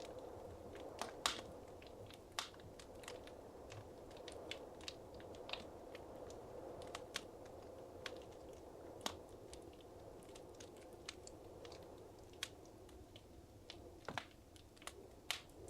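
Wood fire crackling in a fireplace: a soft steady rush of flame with frequent sharp, irregular pops and snaps, a few louder ones about a second in and near the end.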